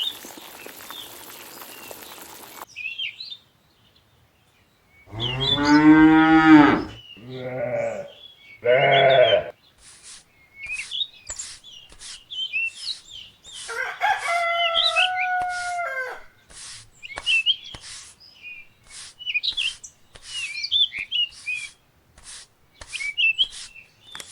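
Farmyard ambience: a cow mooing about five seconds in, followed by two shorter bleating calls. Then birds chirp over a steady series of sharp clicks, about one or two a second, with another long animal call partway through.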